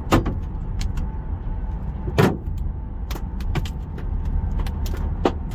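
Golf-ball-size hailstones hitting a car's body, denting it: irregular sharp bangs, several a second, the loudest about two seconds in, over a steady low rumble.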